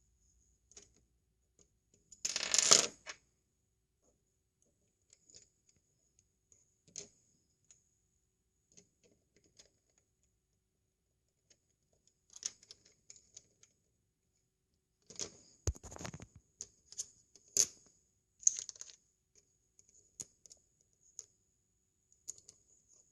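Small plastic Lego pieces clicking and clattering as bricks are handled. A loud rattle of pieces comes a couple of seconds in, then scattered single clicks, and a busier run of clicks and clatter past the middle.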